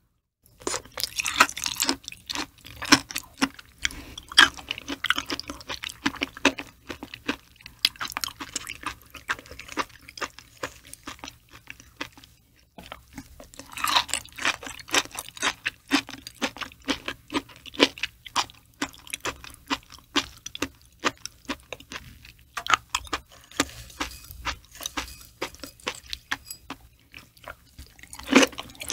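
Close-miked chewing of raw liver: a dense run of small clicks from the mouth, with a short lull just before the middle and a fresh burst as a new bite begins.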